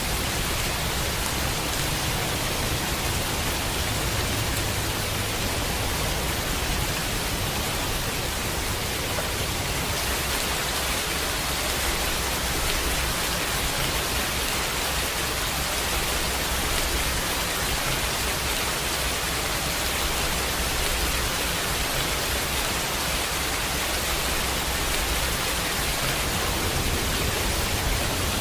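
Steady rain, an even hiss that holds at the same level throughout.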